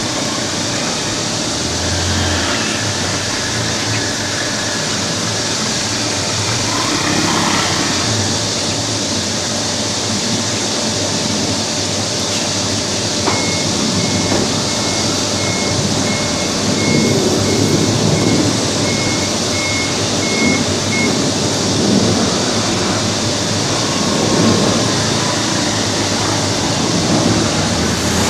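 Boeing 777 freighter's jet engines giving a steady, loud roar with slow swells. A run of short, evenly spaced high beeps sounds for several seconds in the middle.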